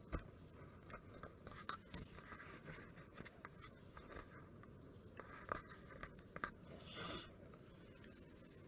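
Faint, scattered clicks and light scratching, with a short hiss about seven seconds in.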